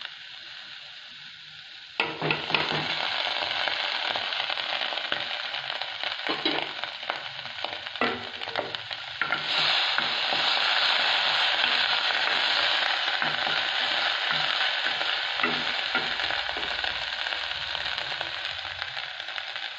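Chopped shallots sizzling in hot oil in a kadai, stirred with a wooden spoon that scrapes and knocks against the pan. The sizzle starts abruptly about two seconds in and grows louder about halfway through.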